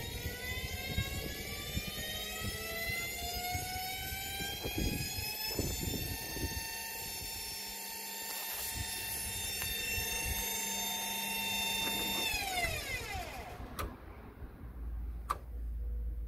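Indesit washing machine spinning with bricks in the drum: the motor's whine climbs steadily in pitch through the spin, with scattered knocks, then about twelve seconds in the motor cuts and the whine falls away quickly as the drum winds down. A few sharp clicks follow near the end.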